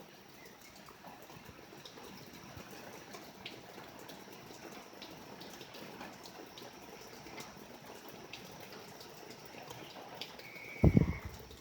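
Steady rain falling, with scattered drips ticking. Near the end there is one short, loud, low thump.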